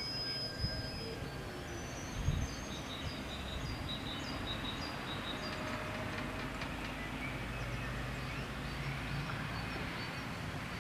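Steady low rumble of a Stadler FLIRT electric train moving off, with a low hum that strengthens near the end, birds chirping, and a single thump about two seconds in.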